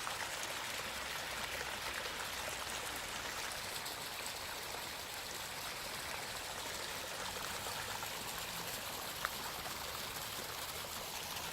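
Small mountain creek running steadily over rocks, flowing low before the spring snowmelt.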